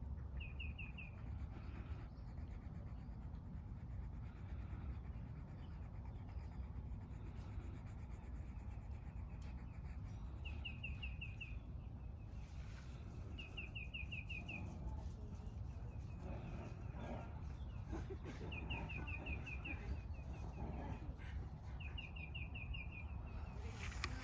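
A bird calling five times, each call a quick run of about five short, high chirps, over a steady low outdoor background rumble.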